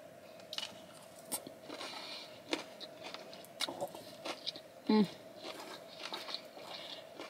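Chewing and eating sounds as a poké bowl is eaten with chopsticks: scattered small, quiet mouth clicks and crunches over a faint steady hum, with a brief hummed voice sound about five seconds in.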